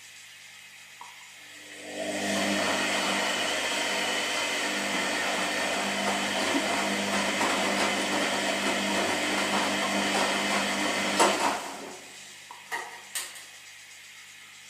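Washing machine motor turning the drum for about ten seconds, a steady whirring churn with a low motor hum under it, then stopping; two short clicks follow near the end.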